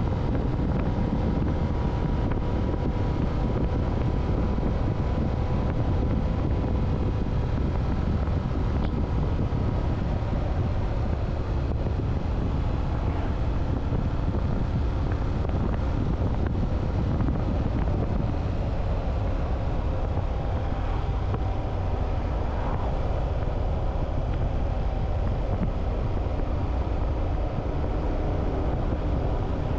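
Motorcycle riding at a steady speed, wind rushing over the microphone with the engine's even note running underneath.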